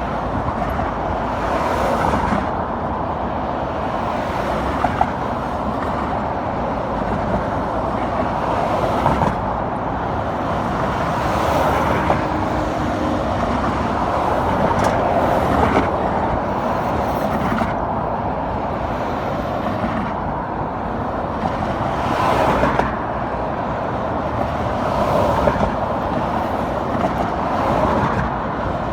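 Car and road traffic noise: a steady rush that swells and fades every few seconds.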